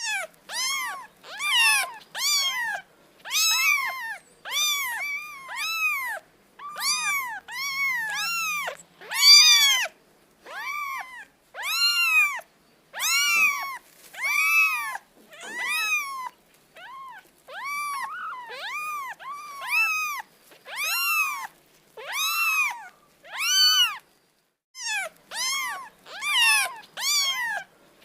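A cat meowing over and over, short high calls that rise and fall in pitch, about one and a half a second, with a brief pause near the end.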